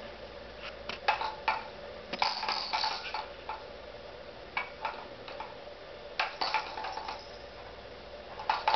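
Light clicking and clinking of small hard objects, in short clusters a second or two apart, over a faint steady hum.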